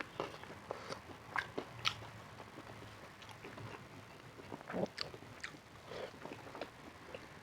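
A person biting and chewing food close to the microphone, with irregular sharp clicks and snaps from the mouth and food.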